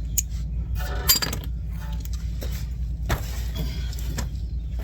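Metal hand tools clinking a few times, a socket and extension being handled, over a steady low hum.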